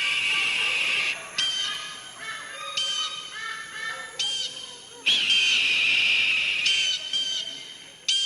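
Bird calls: two long, high held calls, each starting with a quick upward sweep, with shorter rising notes repeated between them.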